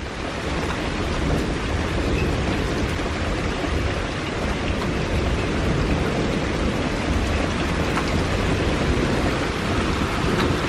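Heavy rain falling steadily on a grass yard, a concrete path and standing puddles, an even hiss during a thunderstorm.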